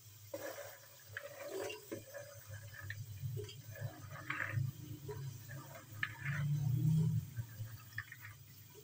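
Wet, soaked black chickpeas sizzling and bubbling in hot ghee and masala in a pressure cooker, with irregular small pops and splutters over a low hum.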